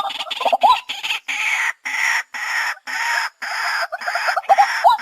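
White-breasted waterhen calling: harsh, rasping notes repeated about twice a second with short gaps between, mixed with short rising notes.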